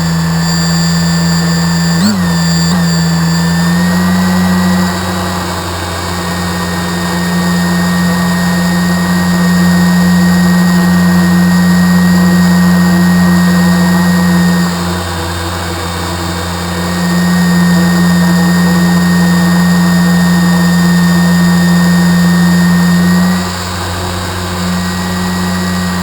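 A motor running steadily with a constant-pitched hum. It dips and swells in loudness a few times, with a small pitch shift about two and four seconds in.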